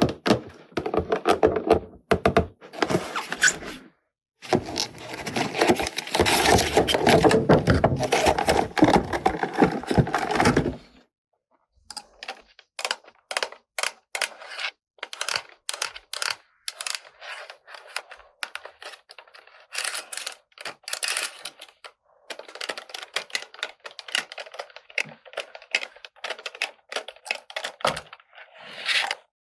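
Small plastic toy pieces and packaging being handled close to the microphone. For the first ten seconds there is dense scraping and rubbing with some dull knocks. After that come scattered sharp light clicks and taps, like plastic parts being set down and snapped together.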